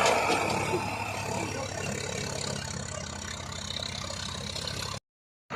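Diesel tractor engine running steadily, with a rapid low firing pulse; the sound drops out completely for a moment near the end.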